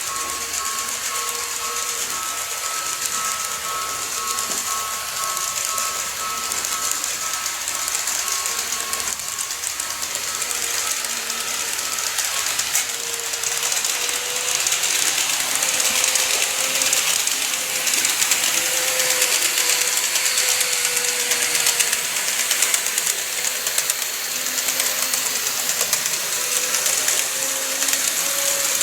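KATO model train running on its track: the wheels roll and click rapidly over the rails with a hissing, and the motor gives a wavering whine. It gets louder partway through as the train comes nearer.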